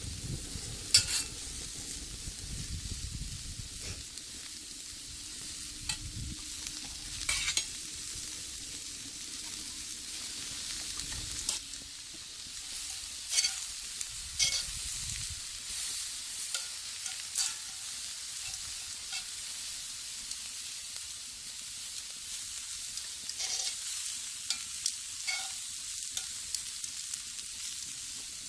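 Food frying in a cast-iron skillet over a wood fire: a steady sizzle, with a few sharp clicks or taps scattered through it, the loudest about a second in.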